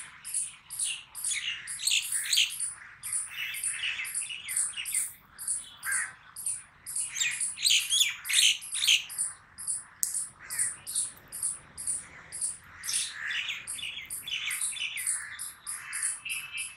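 Birds chirping: a steady run of very high, short chirps, about four a second, with louder bouts of more varied chirping that come and go.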